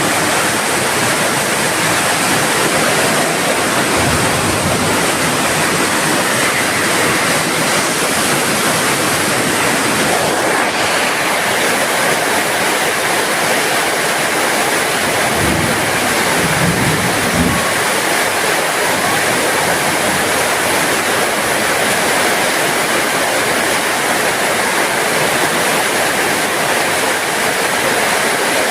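Steady heavy rain falling, a dense even hiss of water, with a few faint low thuds about halfway through.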